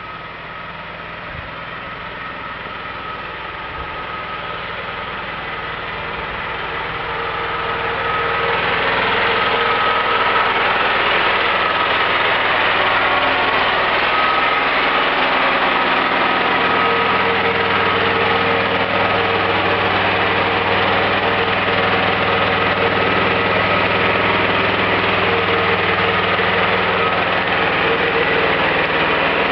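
Small generator engine running on wood gas from an Imbert gasifier, held at a slow steady speed of about 2200 rpm instead of the usual 3000. It grows louder over the first eight seconds or so, then runs evenly.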